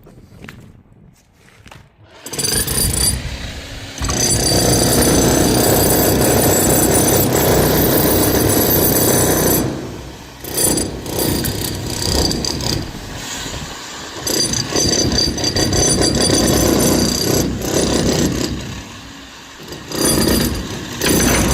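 Electric demolition hammer chiselling into a reinforced-concrete slab edge. It starts about two seconds in and runs in long stretches with brief pauses, a high steady whine over the hammering.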